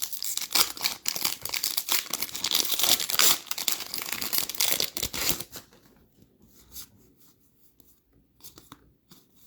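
Foil wrapper of an NBA Hoops trading card pack being torn open and crinkled for about five and a half seconds, then a few faint ticks.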